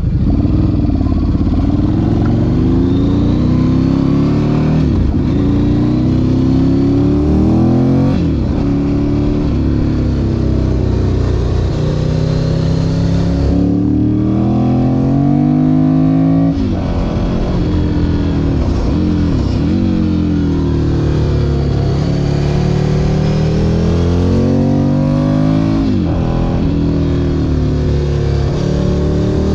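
Ducati Monster 1100 EVO's air-cooled L-twin engine under hard acceleration. The pitch climbs through the revs and drops abruptly at each gear change, several times over, with brief dips where the revs fall and pick up again.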